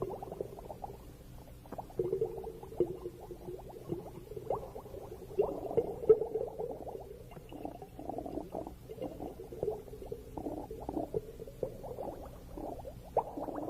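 Bubbling and gurgling recorded underwater, coming in irregular bursts.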